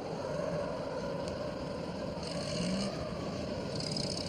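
Sound effect of a small delivery van's engine running steadily under a continuous rush of noise, with the hiss swelling twice.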